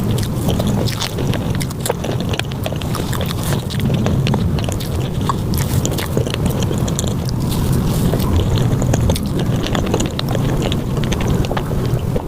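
Close-miked mukbang eating sounds of cheesecake being bitten and chewed, sped up to five times normal speed. The result is a dense, continuous run of small clicks and smacks over a steady low rumble.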